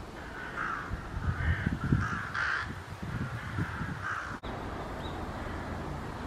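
A crow cawing, a run of harsh calls about every half second, with a sharp click about four seconds in.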